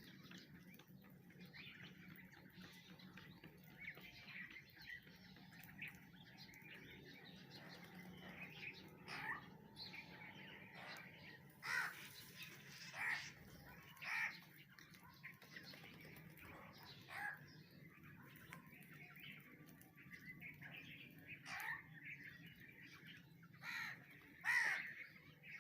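Birds calling: a string of short, harsh calls over a faint steady hum, louder and more frequent in the second half.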